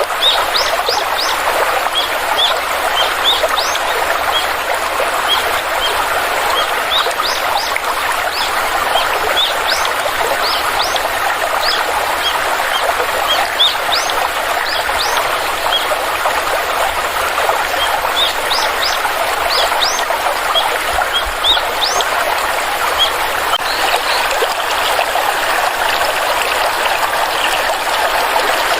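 A stream flowing steadily, with birds giving many short, high chirps over it that thin out near the end.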